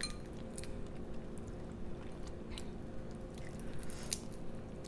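Scattered small clicks and crackles of boiled crawfish shells being handled and broken open, over a steady low hum.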